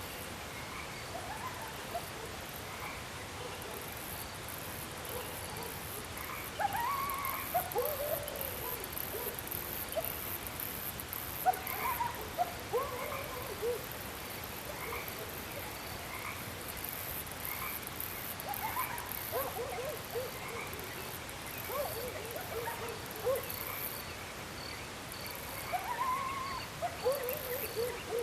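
Short, pitched animal calls that rise and fall, coming in loose clusters, over a steady high insect chorus and a faint regular chirping.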